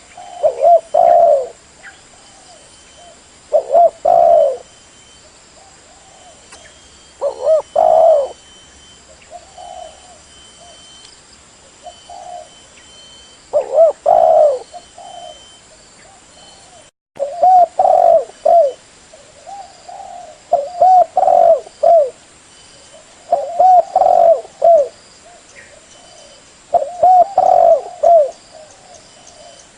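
Spotted dove (derkuku) cooing. Short phrases of a few bending coo notes repeat every few seconds, with a momentary dropout about halfway through.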